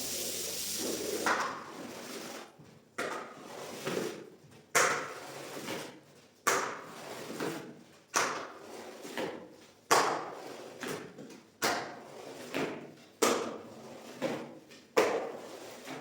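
A steady hiss fades out about a second in, then a long series of sharp knocks comes about once a second, each dying away quickly.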